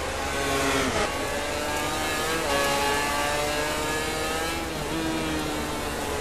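MotoGP racing motorcycle engines revving, several at once, their pitch climbing and then dropping sharply about a second in, climbing again and falling away near the end.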